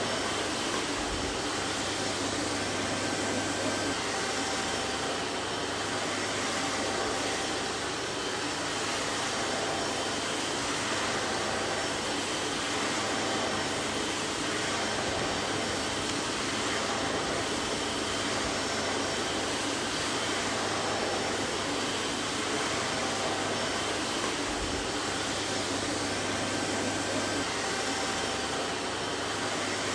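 Vacuum cleaner running steadily, a constant whooshing rush of air with a faint motor hum and a few faint steady whine tones.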